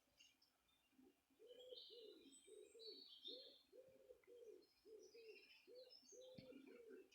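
Faint bird sounds: scattered high chirps, and from about a second in, a low cooing note repeated about twice a second.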